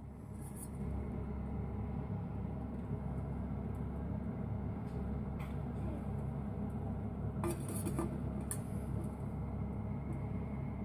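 A few light clinks of metal or glass cookware and utensils, two of them close together about three-quarters of the way through, over a steady low background rumble.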